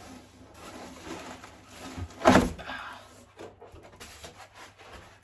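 Handling noises of a cardboard box and its packing being unpacked, with one louder bump-like noise about two seconds in.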